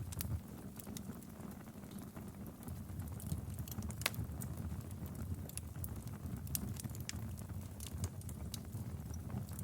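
Wood fire crackling in a fireplace: a steady low rumble of flames with irregular sharp pops and snaps, one louder snap about four seconds in.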